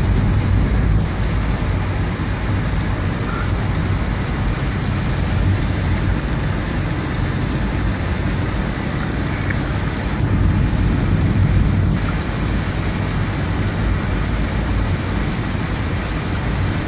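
Car driving through heavy rain: a steady rush of rain and tyres on wet pavement over a low rumble of road noise, heard from inside the car.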